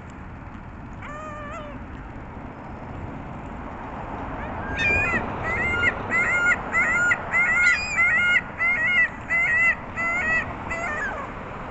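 Gull calling: one short call about a second in, then a long run of about a dozen quick, evenly repeated calls from about five seconds in until near the end.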